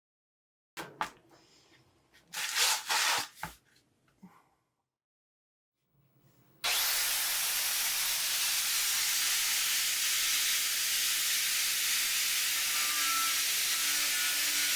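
An angle grinder grinding paint off the steel body of a pedal car: after a few short scraping and handling noises and a brief pause, the grinder spins up with a quick rising whine about halfway through and then runs steadily on the metal with a loud, even hiss.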